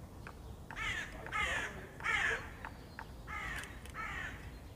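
A bird's harsh, caw-like calls, five in about four seconds, with a few short sharp taps between them.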